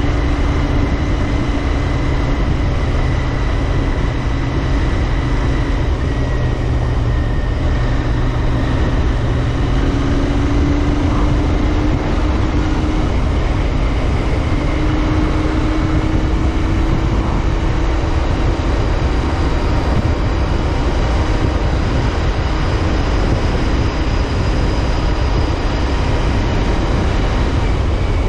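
Royal Enfield Interceptor 650's parallel-twin engine running at a steady cruise, its pitch drifting only slightly, with wind rushing over the microphone.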